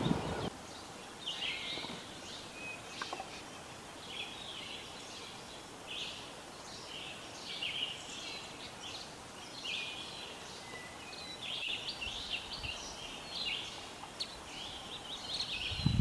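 Small birds chirping: clusters of short, high call notes repeated every second or so, over a faint steady background.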